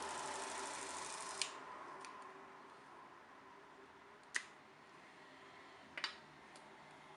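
A few sharp clicks or light knocks at irregular intervals, the loudest about four seconds in and a quick double click about six seconds in, over a faint hiss that drops away after the first click.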